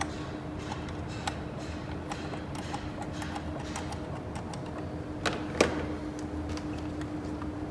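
Scattered light clicks and ticks, with two sharper knocks about five seconds in, over a steady low hum.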